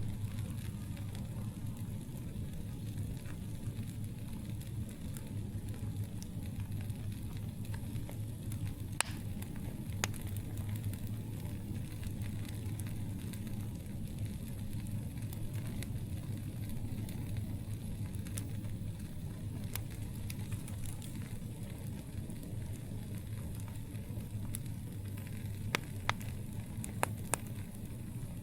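Campfire burning with a steady low rumble and scattered sharp crackles and pops from the burning wood, a few louder pops about a third of the way in and a quick cluster of them near the end.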